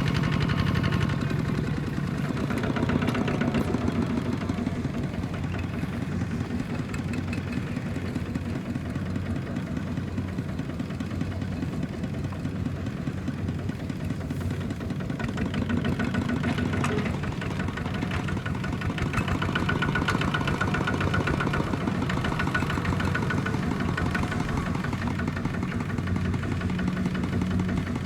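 Kubota ZT155 single-cylinder diesel engine of a small hand tractor running steadily with a fast chugging beat, swelling a little in loudness now and then.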